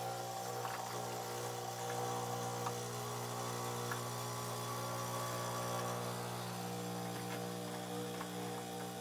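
Jura-Capresso E8 fully automatic coffee machine running with a steady hum.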